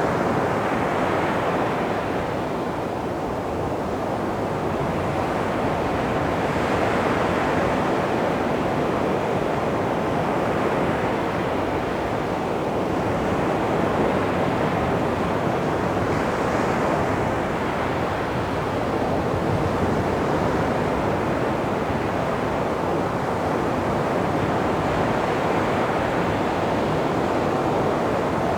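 Sea waves washing onto a beach: a steady, continuous surf noise with gentle swells in level.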